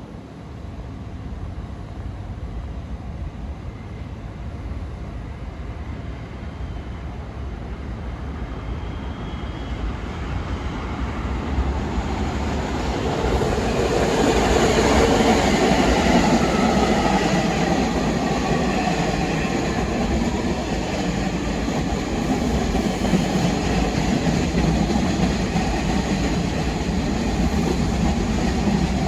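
New York City subway train approaching on the Brighton line, its wheels and motors growing steadily louder over about fifteen seconds, then running loud through the station to the end, with a faint falling whine as it nears.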